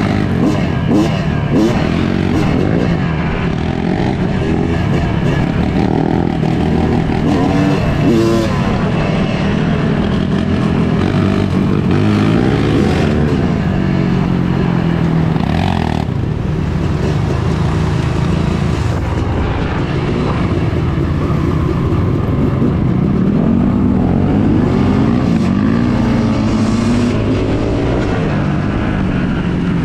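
Yamaha YZ250 two-stroke dirt bike engine being ridden hard. The engine pitch rises and falls repeatedly as the rider works the throttle.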